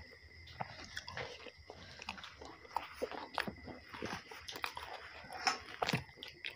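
Chewing and lip-smacking while eating roti with aloo bharta (mashed roasted potato): irregular wet clicks and smacks.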